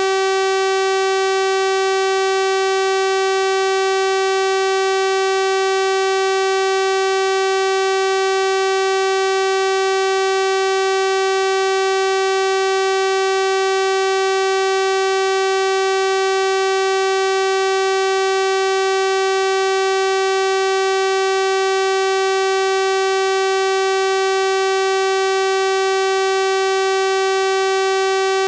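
A steady synthesized 384 Hz sawtooth-wave tone, one unchanging buzzy pitch with a full series of overtones.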